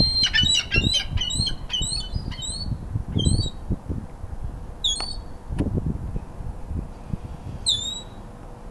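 Ring-billed gull calling: a quick run of short, high squawks, about three a second, thinning to single calls later on. Dull low thumps sound underneath.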